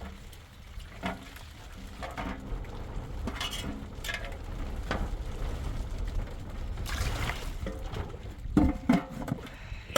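Low rumble of wind on the microphone, with scattered knocks and clatter, the loudest a few sharp knocks near the end.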